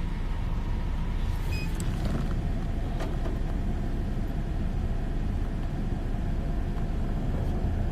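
Steady low rumble of a car heard from inside the cabin, with a faint steady hum.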